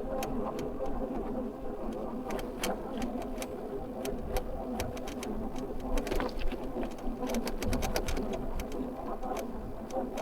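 Electric bike riding along a lane: a steady motor whine and tyre hum, with frequent sharp clicks and rattles from the bike over the road surface.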